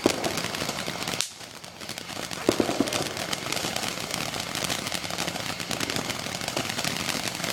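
Ground fountain firework spraying sparks with a steady hiss and dense crackle, which dips briefly about a second in and then carries on.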